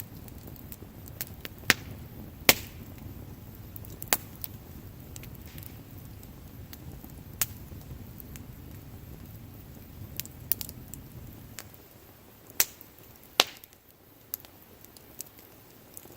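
Wood bonfire crackling: sharp, irregular pops and snaps over a low, steady rumble, with the loudest pops near the start and again toward the end.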